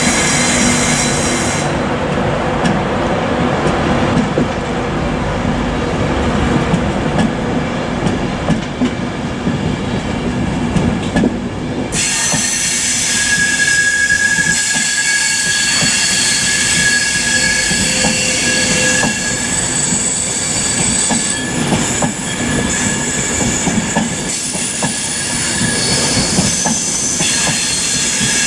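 LNER Class 91 electric locomotive and Mark 4 coaches passing along the platform, the wheels rumbling and clicking over the rails. About halfway through, a steady high-pitched squeal of several tones starts suddenly from the coaches' wheels and keeps going.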